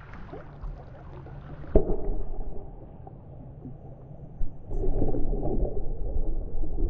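Muffled low rumble on the camera's microphone, with a sharp knock about two seconds in, getting louder near the end.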